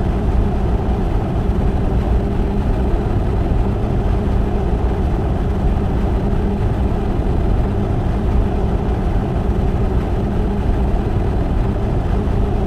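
Steady low engine-like rumble, a cartoon sound effect for a spacecraft in flight, holding even throughout.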